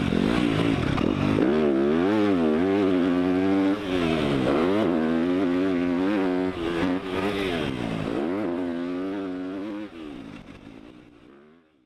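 Yamaha YZ250 motocross bike ridden hard on a dirt track, the engine revving up and falling off again and again through corners and jumps. The sound drops about ten seconds in and fades out.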